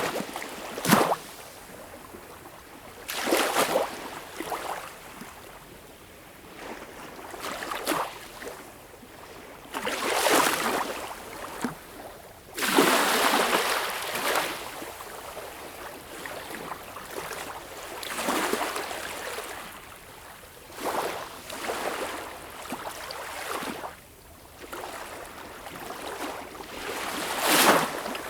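Sea waves breaking and washing in, a surge of rushing water every few seconds that swells and falls back, with a steady wash between.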